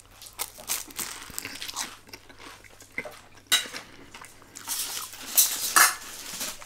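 A crispy fried samosa being bitten into and chewed close to the microphone: irregular crunches and mouth sounds, with a few louder crunches in the second half.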